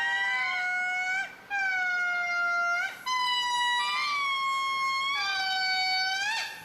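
Lemur calling: about five long, held wailing calls in a row, each one to one and a half seconds, steady in pitch with a quick flick at the end, some pitched higher than others.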